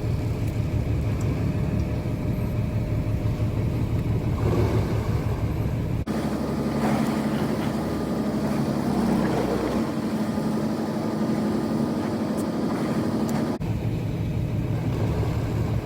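Fishing boat's engine running with a steady drone. The sound changes abruptly about six seconds in to a higher-pitched hum, and switches back shortly before the end.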